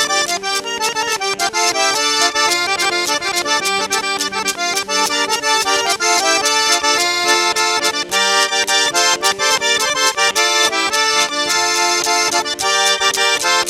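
Fast traditional Caucasian dance music led by an accordion playing quick runs of notes over a steady, driving beat.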